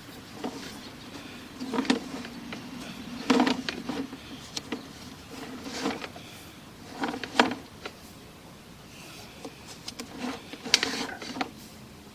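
Sewer camera push cable being fed through a partly blocked drain pipe, with irregular knocks and scrapes as the camera head is worked past debris.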